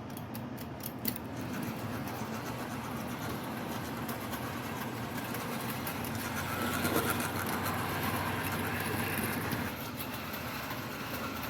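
Tyco HO-scale F7 diesel locomotive and its cars running around a circle of sectional track: the steady whir of the small electric motor and the rattle of wheels on the rails, with scattered sharp clicks. It grows louder about two-thirds of the way through, as the train comes round close by.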